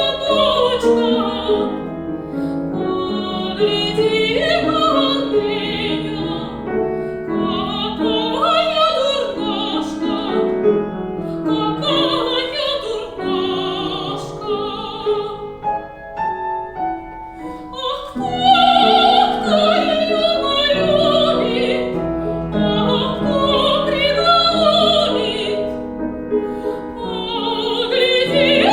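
Operatic soprano singing with wide vibrato over piano accompaniment. The voice drops out for a couple of seconds past the middle while the piano carries on, then comes back loud on a high phrase.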